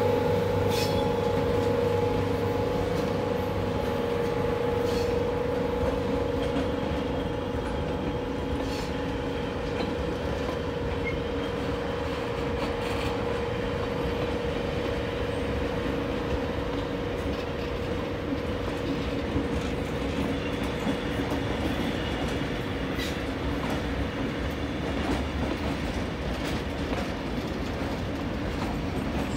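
Passenger carriages of a heritage train rolling past on a curve, their wheels clicking over rail joints at irregular intervals. A steady whine, strongest at the start, fades away over about the first ten seconds.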